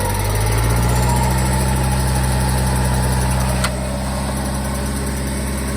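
Engine of an off-road vehicle running steadily at a low, even speed. About two-thirds of the way through there is a sharp click, and the engine note drops a little after it.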